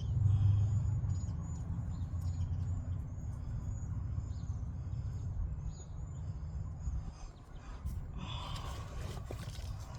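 A passing road vehicle's low rumble, loudest at the start and fading away over several seconds, with small birds chirping over it. Near the end comes a close rustling, scraping sound.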